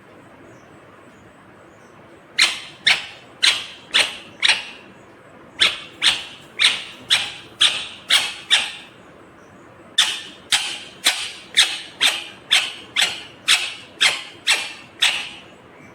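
Pet parrot squawking sharply over and over, about two harsh calls a second, in three runs of roughly five, seven and eleven calls with short pauses between them.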